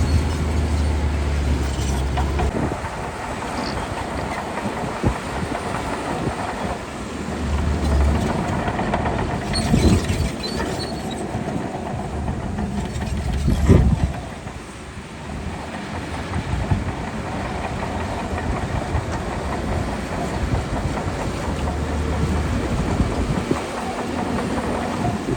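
Shantui DH17C2 crawler bulldozer working: its diesel engine running under load while the steel tracks clank steadily. There are a couple of louder knocks, about ten and fourteen seconds in.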